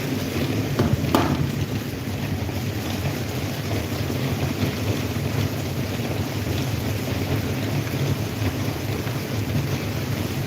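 Electric table fan running steadily, its airflow buffeting the microphone, with a short click about a second in.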